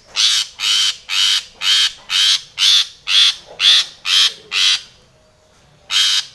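Long-tailed shrike (cendet) giving a run of harsh, rasping calls, about two a second, ten in a row. After a pause of about a second, one more call comes near the end.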